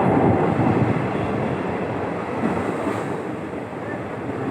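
Steady running noise of a passenger train in motion, heard from on board.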